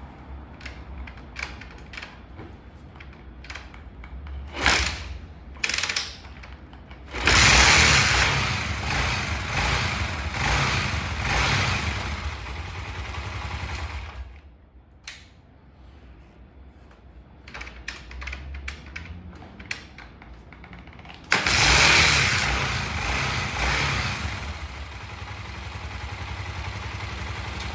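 Honda CB400SS's single-cylinder engine being started and run. After a few seconds of clicks and knocks it becomes loud about seven seconds in, drops back, and becomes loud again about twenty-one seconds in, then settles to a steadier level.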